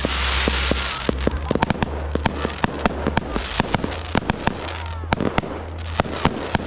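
Fireworks display: aerial shells bursting into crackling stars. It opens with a hissing burst, then a rapid run of sharp pops and crackles, several a second.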